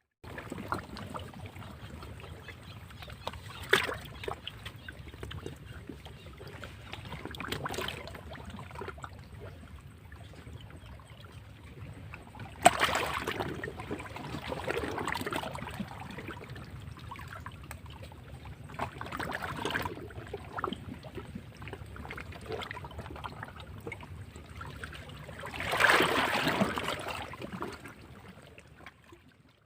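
Sea waves breaking against rocks over a steady wash of moving water, with a surge every few seconds. One wave hits sharply about a third of the way in, and the biggest surge comes near the end.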